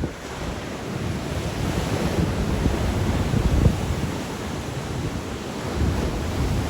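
Black Sea waves breaking on the shore in a strong wind, with wind rumbling on the microphone. The surf swells to a peak about halfway through.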